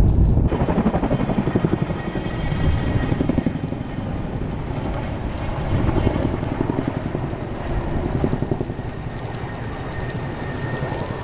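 Helicopter flying, its rotor beating in a fast, even rhythm. The sound changes abruptly about half a second in.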